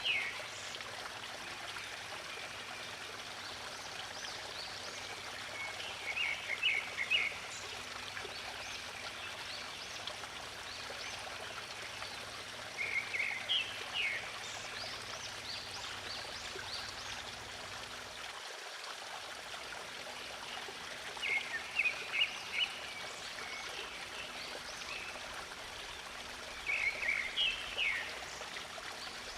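Steady rush of a flowing stream, with a bird singing short bursts of quick notes about every seven seconds over fainter high chirping.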